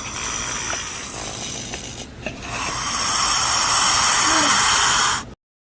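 Snake hissing: a long hiss, a brief break about two seconds in, then a second, louder hiss that cuts off suddenly near the end.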